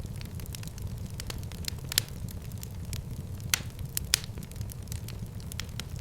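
Wood fire crackling in a fireplace: a steady low rumble of flames with frequent small crackles and a few louder pops, one about two seconds in and two more a little past halfway.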